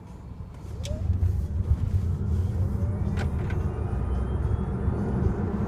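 Tesla Model S dual-motor electric car accelerating hard from a standstill, heard from inside the cabin: a low road and tyre rumble swells about half a second in, with a faint whine rising in pitch as speed builds.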